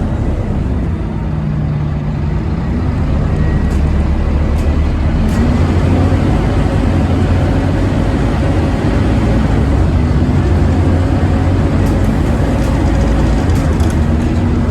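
Scania OmniCity bus engine running under way. Its note drops about a second in and then climbs back and holds steady. This is the loud 'hoover' bus, called kinda fucked and pretty loud.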